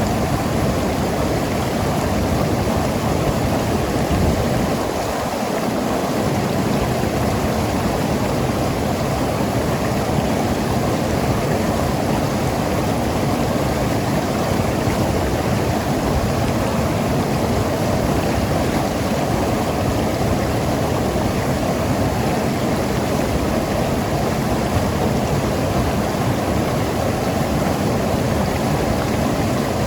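Mountain river rushing and gurgling over rocks in a steady, even flow.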